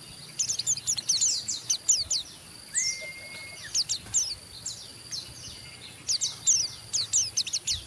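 White-eye (pleci) giving its rapid 'ngeriwik' chatter: quick runs of sharp, high, downward-sweeping notes in bursts with short pauses between. About three seconds in there is a single longer, steady whistled note.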